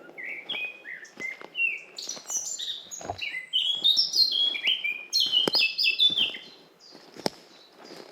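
A songbird singing a fast, varied run of short chirping notes for about six seconds, loudest in the middle, then stopping. Soft footsteps on a forest path keep pace beneath it, about one a second.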